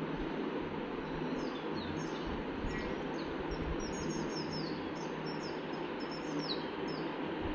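Small birds chirping over and over in short, high, falling notes from about a second in until near the end, over a steady background noise with a low hum.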